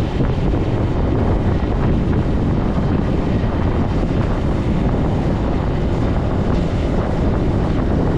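Zontes C125 being ridden at a steady pace: its engine is running under way beneath heavy wind noise buffeting the microphone.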